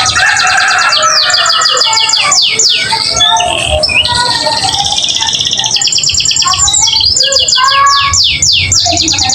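Domestic canary in full song, running one long roll of fast trills after another. The trills come in rapid runs of repeated notes broken by quick downward sweeps, with no pause.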